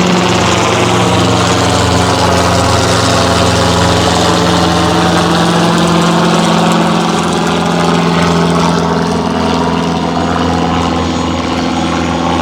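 An aircraft's piston engine idling steadily on the ramp, its tone shifting slowly as it moves; it gets a little quieter about seven seconds in.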